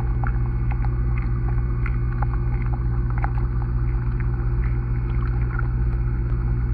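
Underwater sound picked up by a camera submerged in a pond: a steady low hum with small clicks and ticks scattered through it.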